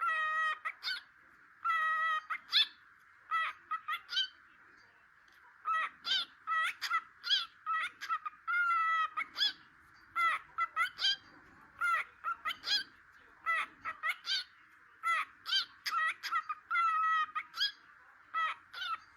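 Cockatiel chattering: quick runs of short, pitched chirps, a few a second, in clusters with brief pauses.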